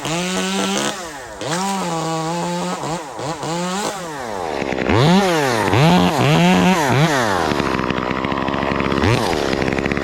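Two-stroke chainsaw cutting limbs. Its engine pitch dips and rises under the throttle, with several quick revs a little past halfway.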